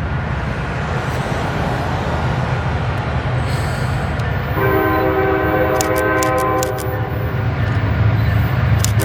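Diesel train running by with a steady low rumble; about halfway through its multi-chime air horn sounds one long blast of a few seconds, and another blast begins at the very end.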